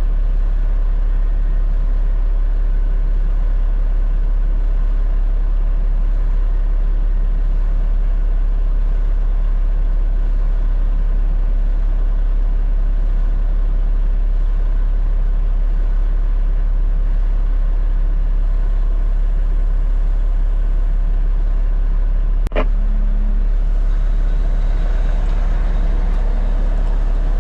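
Peterbilt 589 dump truck's diesel engine idling with a steady low hum. There is a single sharp click about 22 seconds in.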